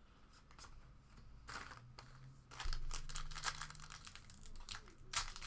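Plastic trading card pack wrapper crinkling and tearing as a pack is opened by hand. It is faint at first and gets louder about two and a half seconds in.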